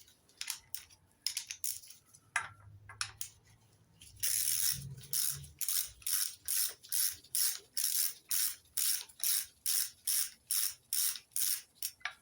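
Ratchet wrench undoing a nut on the inlet manifold of an MGB engine: a few scattered clicks and knocks, then from about four seconds in a steady run of quick back-and-forth ratcheting strokes, about two and a half a second.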